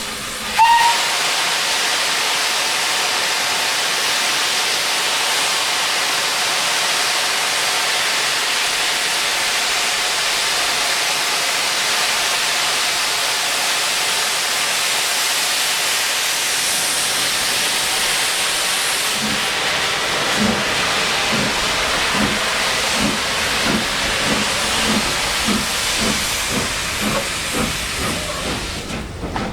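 Steam locomotive 30506, an LSWR S15 class 4-6-0, moving off: a short whistle note about a second in, then a loud steady hiss of escaping steam. From about two-thirds of the way through come exhaust beats, starting at about one a second and gradually quickening as the engine gathers speed.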